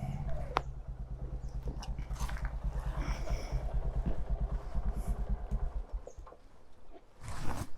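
Royal Enfield Himalayan's single-cylinder engine idling with a steady low thump, then cut off about six seconds in. A short rustle follows near the end.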